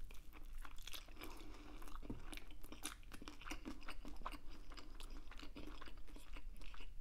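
A person chewing a mouthful of food close to a clip-on lavalier microphone: an irregular run of small, quick mouth clicks.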